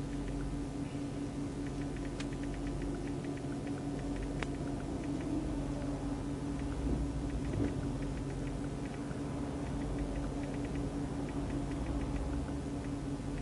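Steady hum of a stopped police patrol car, with a constant low drone and a few faint scattered ticks.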